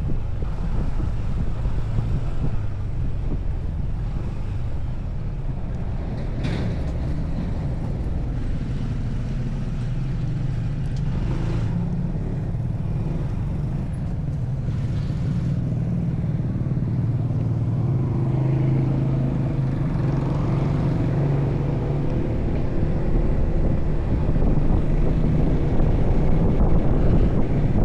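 Motorcycle engine running steadily while riding, a low drone with road noise. A few brief sharper noises about six, eleven and fifteen seconds in.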